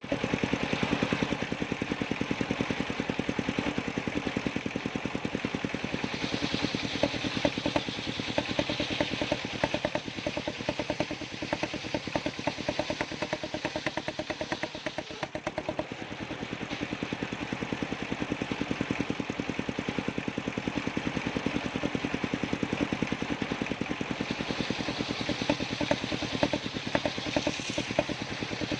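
Engine powering a circular sawmill, running steadily with a rapid, even beat; it dips briefly about halfway through.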